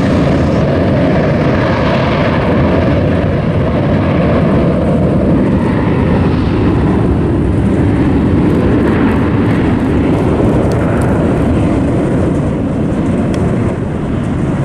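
Jet engines of a Southwest Boeing 737 running with a loud, steady roar, swelling slightly partway through.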